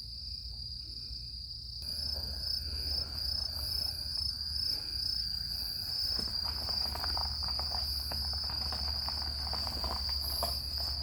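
Crickets trilling in one steady, high, unbroken tone, with a low rumble of background noise that comes up about two seconds in.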